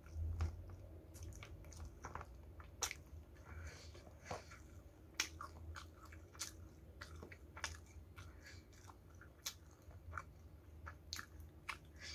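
Close-up chewing of crispy battered fried chicken and rice, with irregular crunches and wet mouth clicks.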